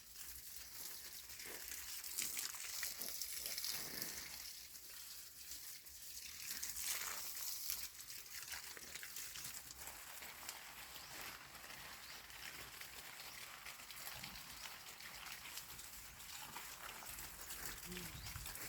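Faint outdoor ambience: a steady high hiss with scattered light crackling and rustling.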